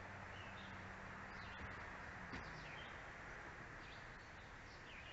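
Birds chirping faintly over a steady background hiss, with a low hum that stops about two and a half seconds in.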